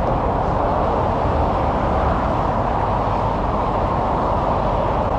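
Steady, even roar of highway traffic noise by the roadside.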